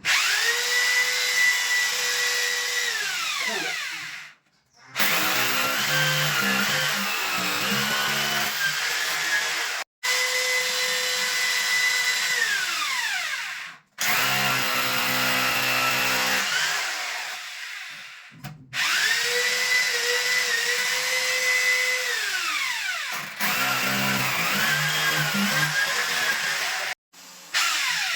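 Electric power drill in several short bursts. Three times it holds a steady high whine, then is released and winds down, falling in pitch. In between it runs unevenly with a choppy, pulsing sound.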